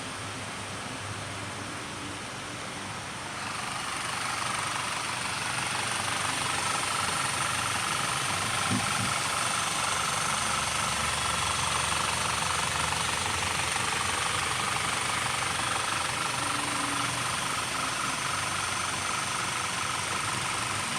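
Audi Q5's engine running steadily, growing louder about three and a half seconds in.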